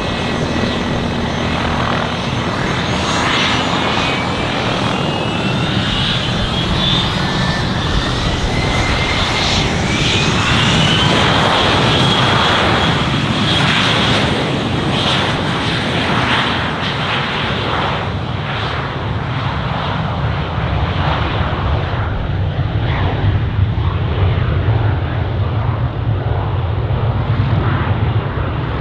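Turbine engines of a fixed-wing aircraft running, with a high whine that rises in pitch over several seconds and then holds steady. The high whine fades away in the second half, leaving a lower rumble.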